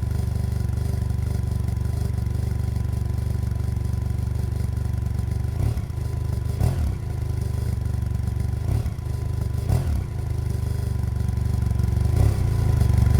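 BMW F800GS Adventure's parallel-twin engine running steadily on the road, with a few brief changes in its note and a rise in loudness near the end.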